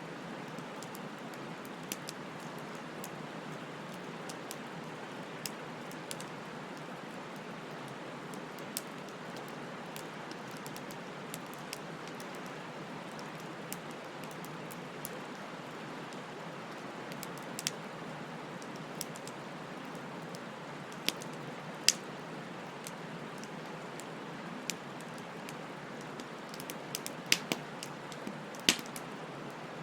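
Wood fire burning with a steady low rush and irregular sharp crackles and pops. The crackles come thicker a few times, with the loudest snaps near the end.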